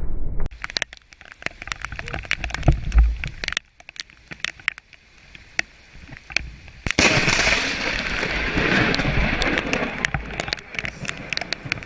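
Thunderstorm sounds: a run of sharp crackling snaps, a low rumble about three seconds in, then a steady rushing hiss from about seven seconds in.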